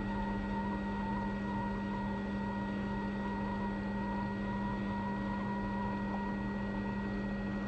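Hot air rework station blowing steadily while it reflows an iPhone 6 Plus touch IC onto the logic board: a steady hum with a fainter, higher whine over an even rush of air.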